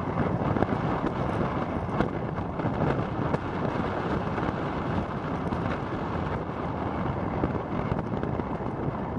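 Motorcycle riding at a steady pace: wind rushing over the microphone with engine and road noise underneath.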